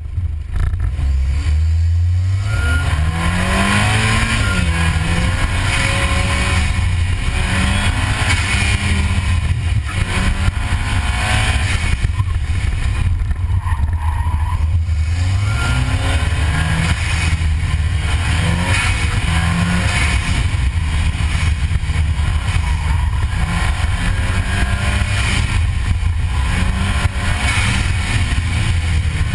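2006 Volkswagen GTI's turbocharged 2.0-litre four-cylinder engine under hard acceleration on an autocross run. Its pitch rises steeply over the first few seconds from the launch, then rises and falls as the car works through the cones, climbing steeply again about halfway through.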